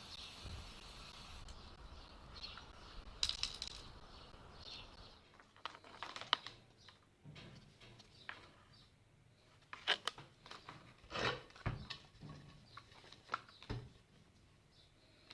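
Irregular light clicks and knocks of small hard objects being handled, with a steady hiss in the first second and a half that cuts off suddenly.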